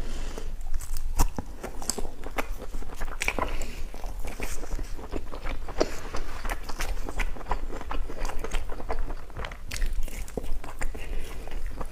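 A person chewing and biting food, with many short, irregular clicks and smacks.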